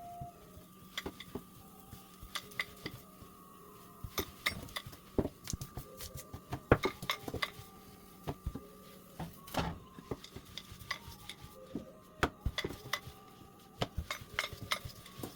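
Metal kitchen utensils knocking and clinking against a cooking pan while roti cook: many short, irregular taps and clinks.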